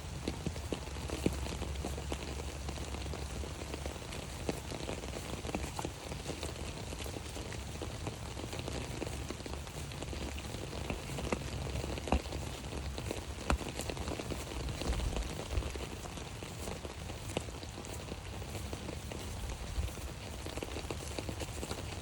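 Rain falling on an umbrella: a steady hiss of drops with many scattered sharper taps.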